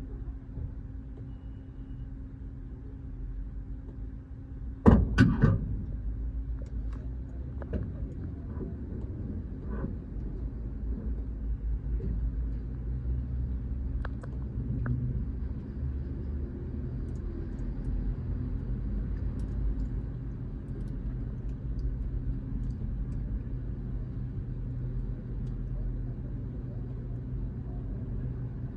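Automatic car wash machinery running with a steady low rumble. There is a loud sudden burst about five seconds in, then scattered knocks and clicks.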